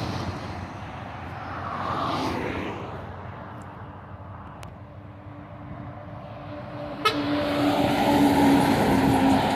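Road traffic with trucks passing: the noise swells about two seconds in, fades, then rises again after a sharp click about seven seconds in, over a steady low engine hum.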